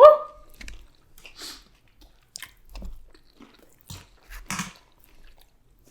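A short rising "woo!" at the very start, then close-miked chewing and biting of takeout food, with scattered crunches and wet clicks of the mouth; the strongest crunch comes about four and a half seconds in.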